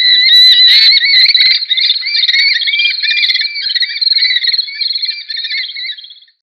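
Falcon calling: a fast, unbroken run of high repeated chattering notes that fades out near the end.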